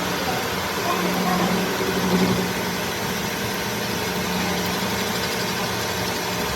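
A machine or engine running steadily, a constant low hum under a broad even noise.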